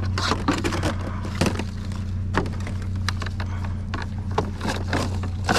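Hands working at a discarded household appliance to take its power cord off: a scattered run of sharp clicks and knocks, over a steady low hum.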